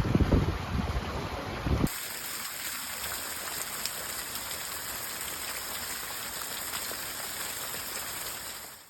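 Wind buffeting the microphone in gusts, then after about two seconds an abrupt change to a steady rush of running water, fading out at the end.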